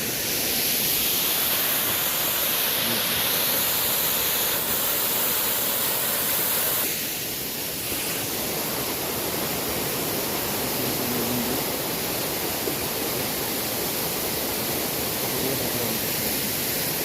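Small waterfall on a mountain stream, water rushing in a steady, dense roar. It eases slightly about seven seconds in.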